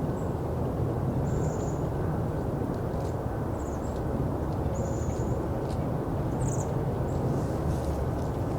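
Short, very high, thin bird call notes, about half a dozen scattered through, over a steady low rumble.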